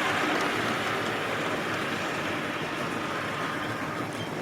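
Model railway trains running on the layout: the steady whirr of the locomotive motors and the rumble of wheels on the track, easing off slightly near the end.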